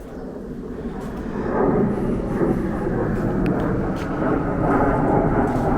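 Engine noise of a passing vehicle: a steady rumble that grows steadily louder over a few seconds as it approaches.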